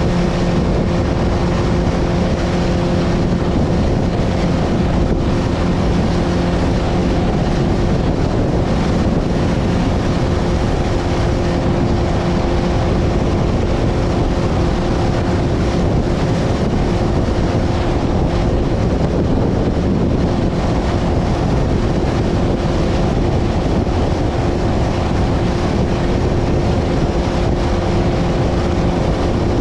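Motorboat engine running steadily under way, with strong wind buffeting the microphone and choppy water rushing against the hull.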